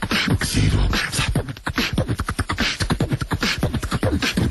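Rapid vocal percussion in beatbox style: quick mouth-made clicks, hissy snares and bass thumps, several a second.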